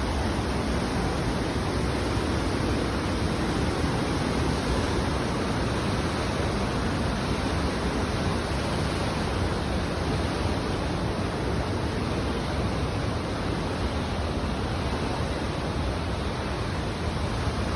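Water rushing down Calypso Cascades, a mountain-creek waterfall: a steady, unbroken rush.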